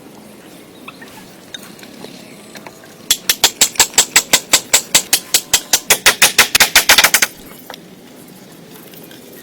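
A rapid run of sharp knocks, about seven a second, starting about three seconds in and stopping suddenly after about four seconds.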